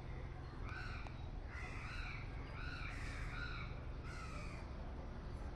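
Birds calling over and over, short arching calls coming every half second or so, over a low steady rumble.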